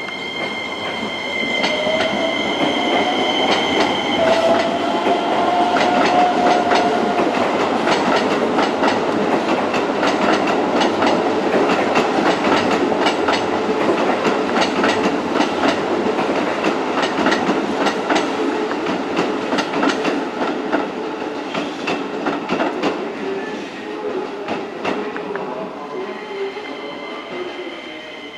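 An electric train passing through, its wheels clicking in a quick steady rhythm over the rail joints. A whine rises in pitch in the first few seconds, and the train fades away toward the end.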